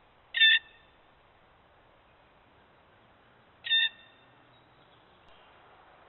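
A bird calling twice: two short, harsh calls about three seconds apart.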